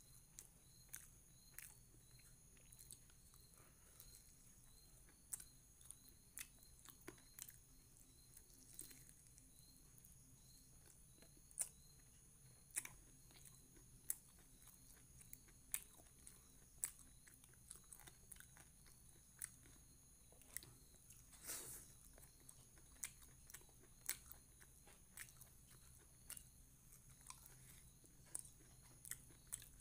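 Faint mouth sounds of a person chewing and biting into fried chicken lollipop and rice: a string of short, sharp clicks and crunches, with one longer, louder one about two-thirds of the way through.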